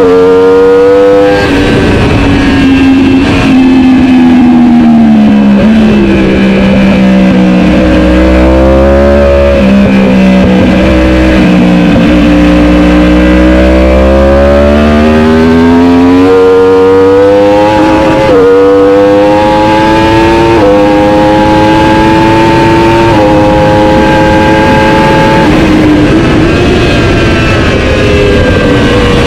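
Racing superbike engine at full race pace, loud throughout: the pitch falls through the first few seconds, stays low for several seconds with a deep rumble underneath, then climbs again, stepping up and down through a run of quick gear changes in the second half.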